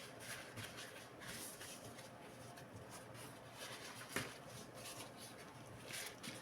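Faint scraping, rubbing and light clicking of hands and small tools on laptop parts, with one sharp click about four seconds in.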